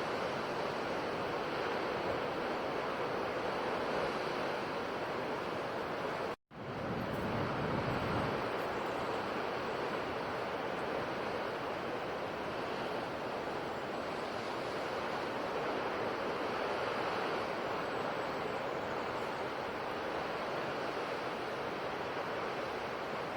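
Ocean surf washing steadily onto a shore, with a low swell about seven seconds in. The sound drops out completely for an instant just before it, at a splice in the recording.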